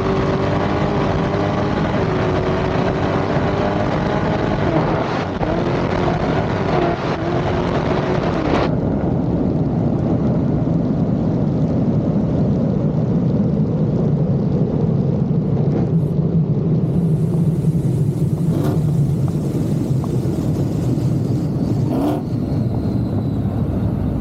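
Drag racing car engines running, with a steady low rumble and slight changes in pitch. The sound changes abruptly about nine seconds in and again later, as at cuts in the footage, and a few short knocks come near the end.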